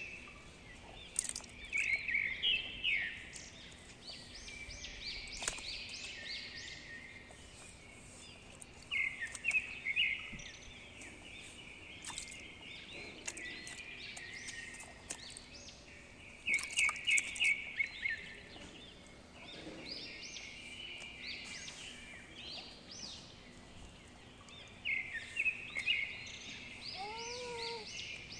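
Small birds chirping outdoors: bursts of quick, high chirps every few seconds, over a faint steady hum.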